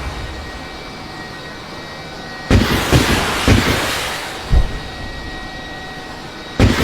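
An explosion: a sudden boom about two and a half seconds in, then rumbling with a few more low thumps that fades over about two seconds. A faint steady high tone runs underneath.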